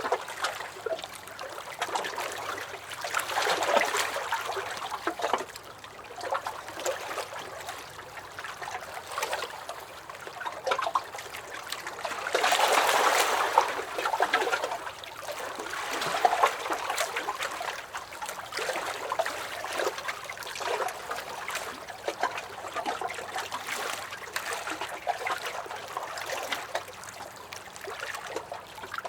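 Small lake waves lapping and sloshing against a dock in irregular little splashes, with a louder, longer slosh about halfway through.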